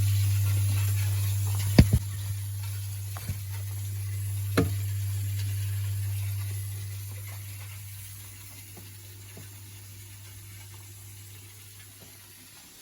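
Leaking boiler, dripping from a clogged filter: a steady low hum under a faint hiss, with a few sharp ticks in the first five seconds. The hum fades away over the second half.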